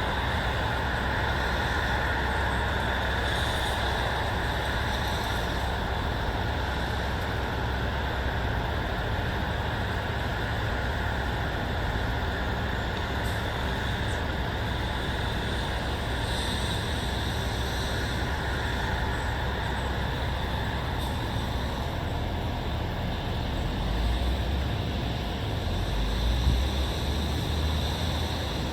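Steady ambient rumble of distant road traffic, with a low swell from a passing vehicle a few seconds before the end.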